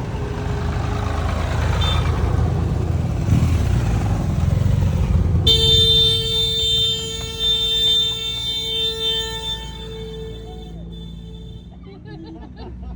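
Tractor engines rumbling past, then about five and a half seconds in a vehicle horn sounds one long steady blast of about five seconds before fading out.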